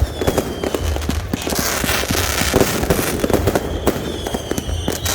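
Fireworks going off in a rapid, dense run of bangs and crackles, with a whistling shell whose whistle falls slightly in pitch just after the start and another in the last second and a half.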